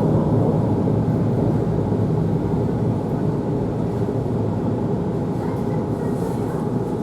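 Electric commuter train under way, heard from inside the carriage: a steady low rumble of the car and its wheels on the rails.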